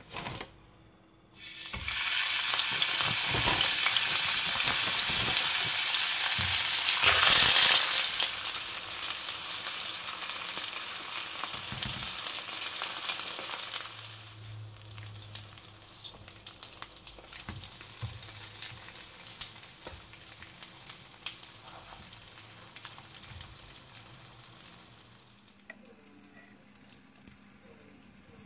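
Patties shallow-frying in oil in a nonstick frying pan: a loud sizzle starts about a second in and swells briefly, then drops to a quieter crackling sizzle about halfway through.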